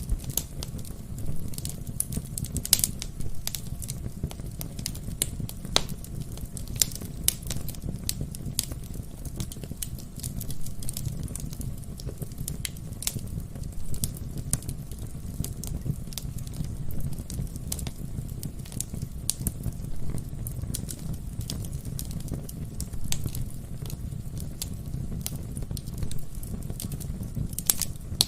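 Wood fire burning in a fireplace, the logs crackling with frequent irregular sharp pops and snaps over a steady low rumble of the flames.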